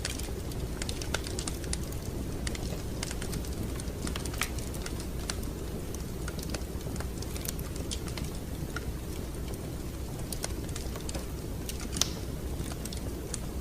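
Wood fire crackling in a fireplace: irregular sharp pops and snaps over a steady low rumble of the burning fire, with one louder pop near the end.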